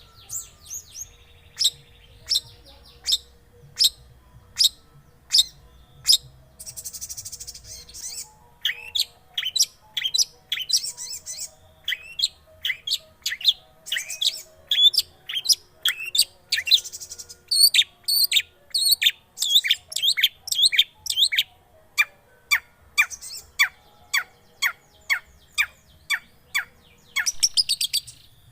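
Long-tailed shrike (cendet) song played as a lure recording to set off a silent caged cendet. It is a long series of sharp, quick, downward-sliding notes that come faster and closer together after the first several seconds, broken three times by a brief harsh rasping chatter.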